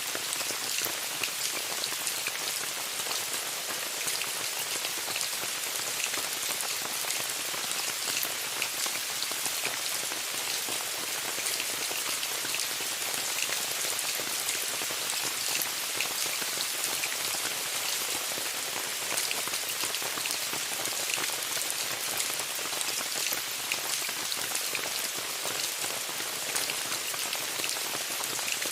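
Steady rain falling on a tent, a constant hiss dotted with many sharp hits of individual drops.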